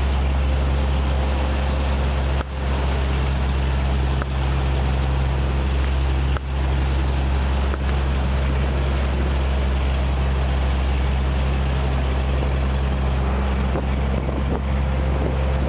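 Fishing boat's engine running steadily at trolling speed, a deep even hum under constant wind and water rush, with brief dips in level twice.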